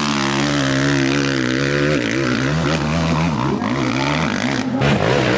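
An engine drones loudly at a steady pitch, then from about two seconds in its pitch wavers up and down, with a brief break near the end.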